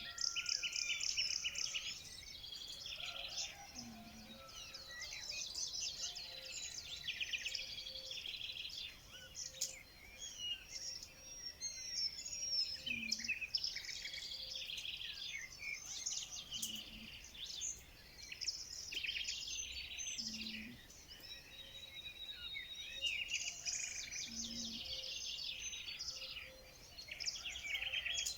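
A chorus of several songbirds singing, with overlapping trills and chirps. A short low note recurs every few seconds beneath them.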